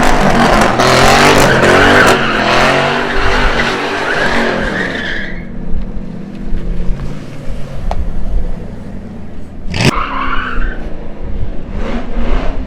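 A car doing a burnout: engine revving hard with the rear tyres spinning and squealing for about five seconds, then the tyre noise stops and the engine runs on more quietly. A sudden sharp sound stands out about ten seconds in.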